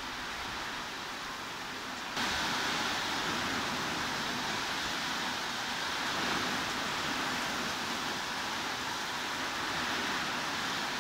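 Steady hiss of heavy rain, used as white noise, with no separate drops or tones standing out. About two seconds in it steps up abruptly, louder and brighter.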